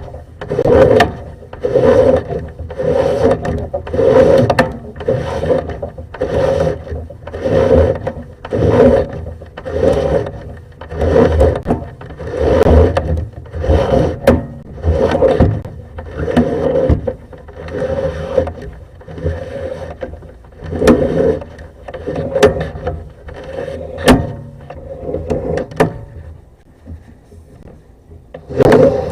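Sewer camera push cable scraping through the drain pipe and cleanout in repeated strokes, about one a second, as the camera is pulled back out of the line. The strokes ease off and turn quieter near the end.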